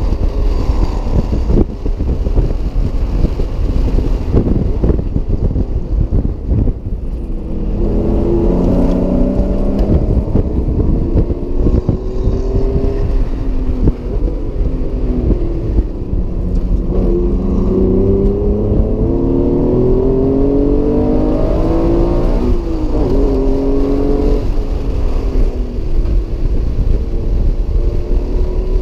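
Acura NSX's mid-mounted V6 heard from inside the cabin while lapping at speed. The engine note climbs again and again as the car accelerates through the gears, and falls back each time the driver shifts or lifts for a corner, over a heavy low rumble.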